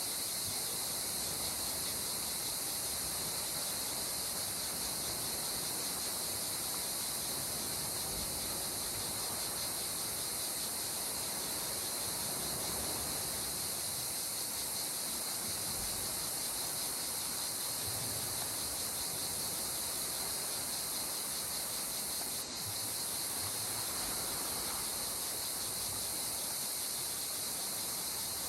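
A continuous, high-pitched insect chorus, crickets or cicadas, shrilling without a break over a soft, slowly swelling wash of calm sea water.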